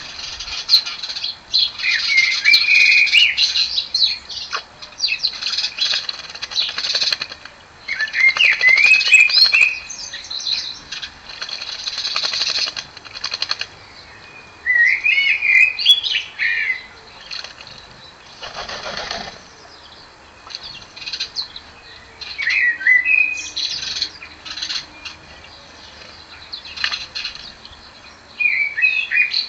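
Small birds bathing in a garden bird bath: repeated bursts of splashing and wing-fluttering. A blackbird sings short warbled phrases every six seconds or so, and there is a brief low rush of wings near the middle.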